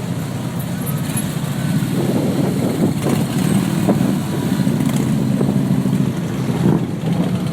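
Motorcycle engines running steadily, a continuous low engine drone.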